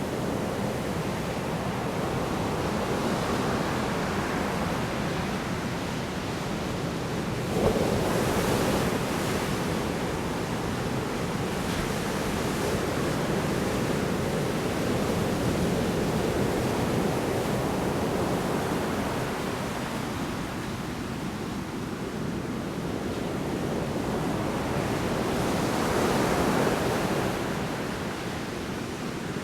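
Heavy storm surf on a shore: a steady wash of breaking waves, with one wave crashing in suddenly about a quarter of the way through and another surge swelling and falling away near the end.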